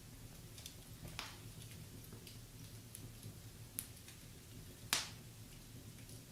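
Wood fire crackling in a fireplace: scattered faint ticks and a few sharper pops, the loudest about five seconds in, over a low steady rumble.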